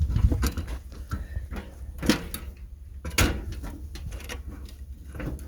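A few sharp knocks and clatters from parts being handled: a cluster at the start, one about two seconds in and a louder one about three seconds in, over a steady low rumble.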